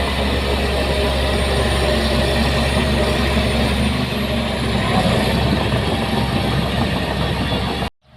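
Heavy machinery's diesel engine running steadily. The sound cuts off abruptly near the end.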